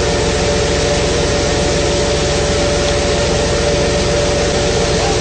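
A fishing boat's engine running steadily: a low, evenly pulsing rumble under a steady hum, with a constant hiss over it.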